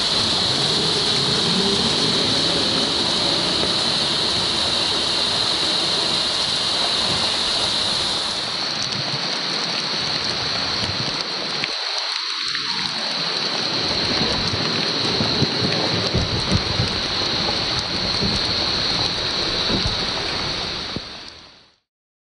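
Steady rain, an even hiss, that fades out near the end.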